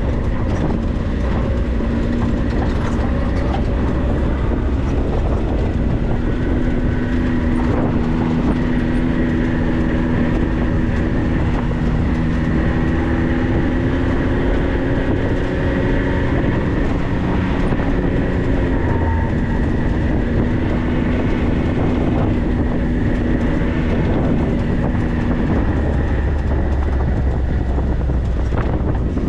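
4x4 driving slowly over a rough dirt trail: a steady low rumble of engine and tyres. An engine tone comes up a few seconds in, holds with a slight rise, and drops away near the end.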